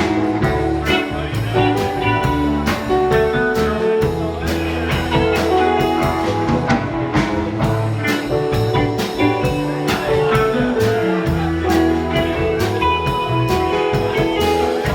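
Live rock band playing an instrumental jam: electric guitar lines over bass and a drum kit keeping a steady beat.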